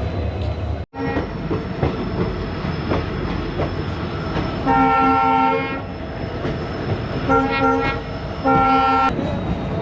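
Train running along the track with a steady rumble, its locomotive horn sounding three times: one long blast about halfway through, then two shorter ones close together near the end.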